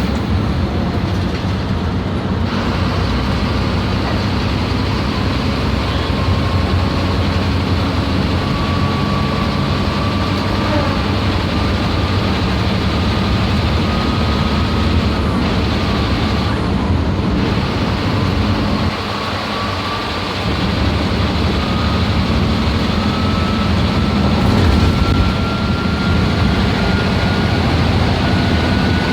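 MSRTC bus diesel engine running under load, with a thin turbocharger whistle that climbs slowly in pitch as the bus gathers speed. The engine sound dips briefly about two-thirds of the way through.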